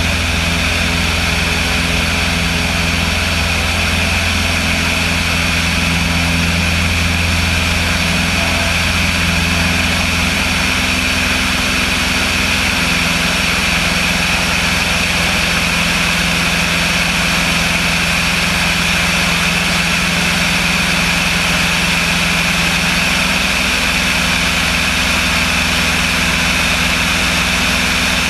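Light aircraft's piston engine and propeller running steadily. The deepest part of the drone eases slightly about halfway through.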